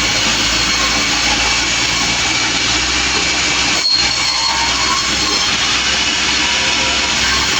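Sawmill running: a loud, steady machine noise of the saw and its engine, with a momentary break about four seconds in.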